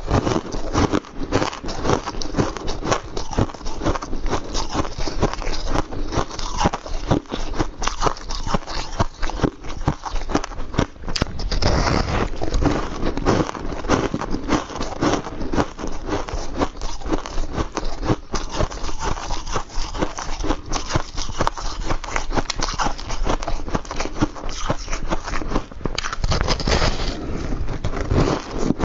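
Close-up chewing of refrozen powdery ice, a continuous run of soft, crackly crunches and scrapes without pause.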